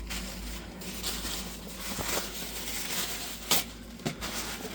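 Rustling, crinkling handling noises while working under the car, with a sharp knock about three and a half seconds in and a lighter one just after four.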